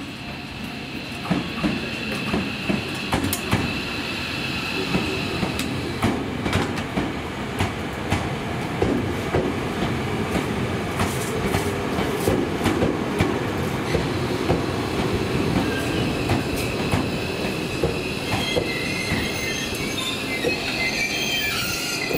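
Tobu 500 Series Revaty electric train pulling into a station and slowing: steady running rumble with wheels clicking over rail joints in the first few seconds, and a high squeal that wavers near the end.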